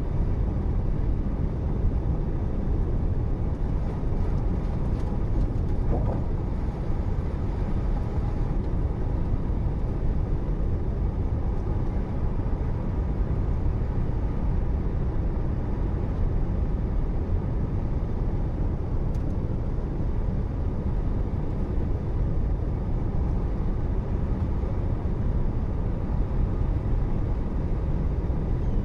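Steady low rumble of a moving car: road and engine noise that holds constant throughout.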